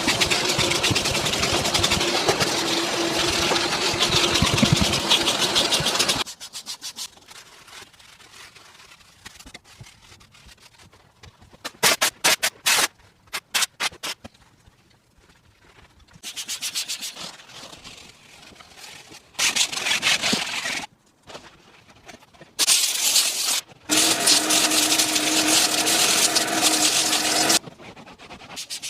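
Car-detailing work: an electric tool's motor running steadily with a whine for about six seconds, then short bursts of rubbing and scrubbing that start and stop abruptly, and the motor tool running again near the end.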